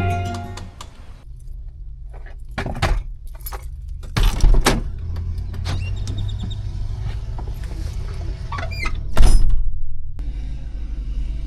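Steady low vehicle rumble with several knocks and clunks, the loudest a little after nine seconds with a brief squeak just before it.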